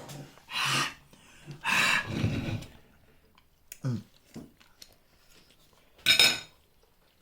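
People eating extra-spicy Korean instant noodles: several short, noisy breath-and-mouth sounds of slurping and sucking air, with a brief falling hum about four seconds in.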